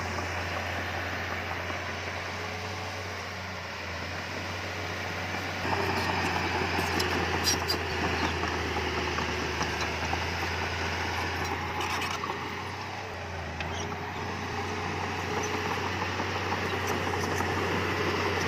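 Diesel engine of heavy earthmoving equipment running steadily, getting louder about six seconds in, with a few faint clanks.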